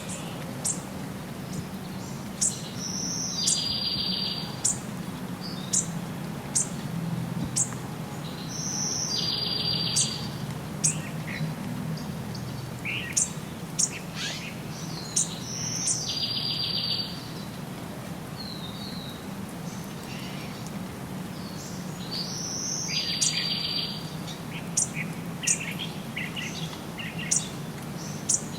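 Songbirds chirping, with many short sharp high chirps and a buzzy trilled phrase that comes back about every six to seven seconds. A steady low rumble runs underneath.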